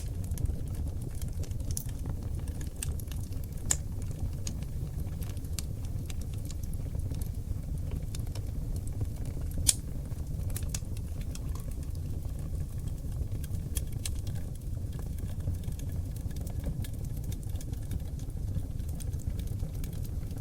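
Oak log fire burning in a fireplace: a steady low rumble of flames with irregular crackles and sharp pops, the loudest pop just under ten seconds in.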